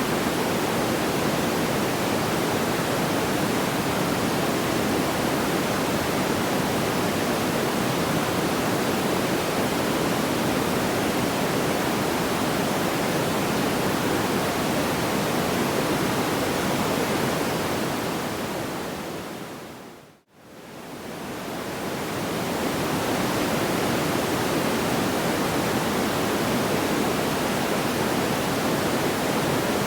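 Steady, even rushing noise like pink noise, with no audible crackle or pops. About twenty seconds in it fades to silence and swells back within a couple of seconds, as at the join of a looped track.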